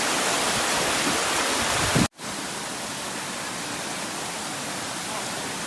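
Waterfall rushing as a steady roar of falling water. About two seconds in it cuts off sharply for a moment, then carries on noticeably quieter.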